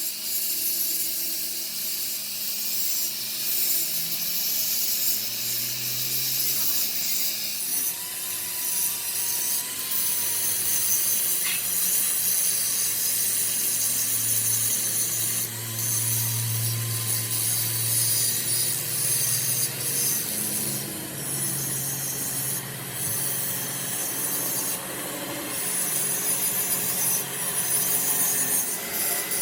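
Steady scraping and rasping of a tool working the metal of a clutch flywheel, with a low hum underneath.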